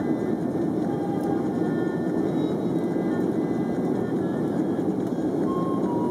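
Steady cabin roar inside an Airbus A330-300 in flight: engine and airflow noise, even and unchanging, with its weight in the low-mid range.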